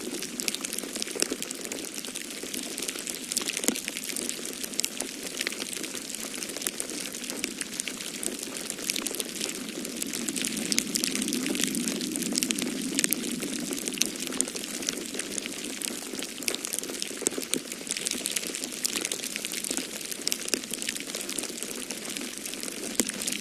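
Wood fire crackling in a fireplace: dense small pops and snaps over a steady low rush that swells about halfway through.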